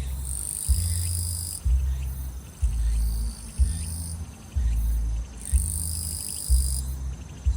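Grass insects singing in high, shrill stretches of a second or two at a time, with a faint rapid pulsing trill underneath. A steady deep bass thump from nearby music, about once a second, is the loudest sound.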